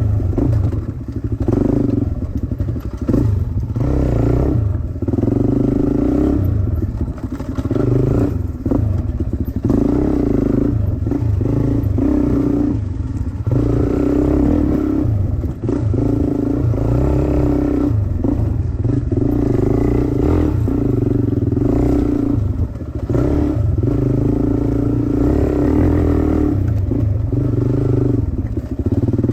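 Dirt bike engine being ridden hard, the throttle opening and closing every second or two so the revs rise and drop over and over.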